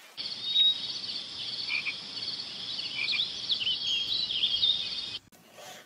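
Night chorus of calling frogs and insects, a dense high trilling with rapid pulsed calls and short chirps. It starts just after the beginning and cuts off suddenly about five seconds in.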